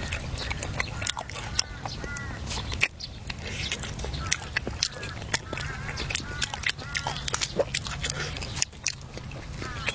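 Close-up eating sounds: biting and crunchy chewing with many sharp clicks, over a steady low hum, with short arched chirping calls now and then.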